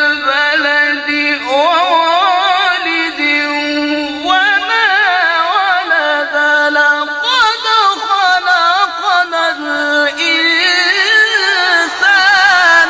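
A reciter's voice in Arabic melodic Quran-recitation style, holding one long, high, heavily ornamented phrase without a pause for breath, the melody wavering up and down over a steady lower held note.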